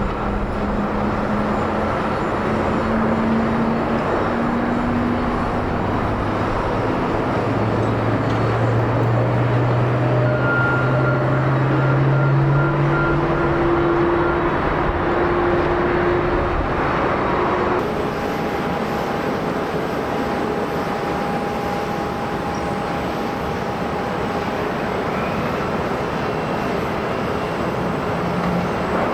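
Jet airliner engines on a landing approach: a steady roar with whining tones whose pitch slowly rises, from an Airbus A320neo. About 18 s in the sound cuts to a second airliner, a Boeing 777-200ER, approaching with a steadier roar and a fainter whine.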